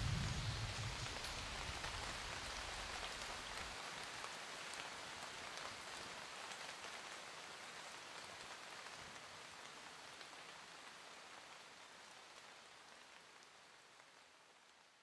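Steady rain falling, with the tail of a low thunder rumble dying away about a second in. The rain fades out gradually to near silence by the end.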